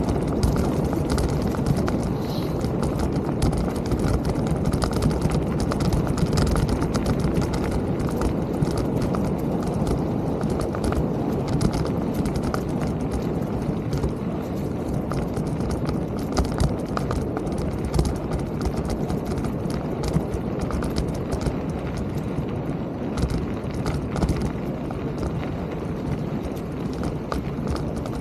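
Mountain bike being ridden over a rough trail: a steady rumble of tyres and riding noise, with frequent rattling clicks and knocks as the bike jolts over bumps.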